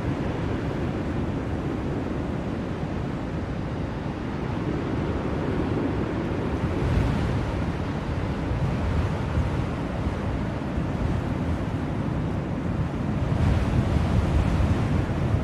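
Blizzard wind as a continuous low rushing noise, swelling in gusts about seven seconds in and again near the end.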